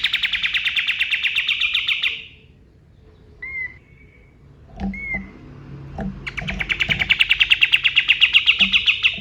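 Kapas tembak bird singing: a long, fast rattling trill of rapidly repeated sharp notes, about a dozen a second, which stops about two seconds in. A couple of short chirps follow, then a second long trill begins about six seconds in.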